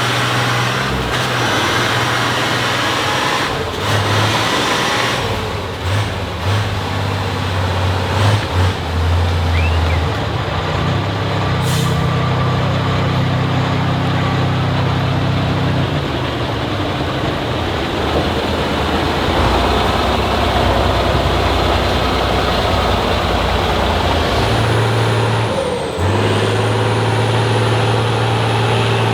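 Heavy off-road trial trucks' diesel engines working under load, their pitch rising and falling, with a few sharp air-brake hisses.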